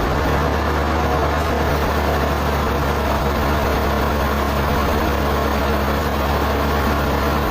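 Sawmill machinery running steadily, an unchanging low engine-like hum under a dense mechanical noise.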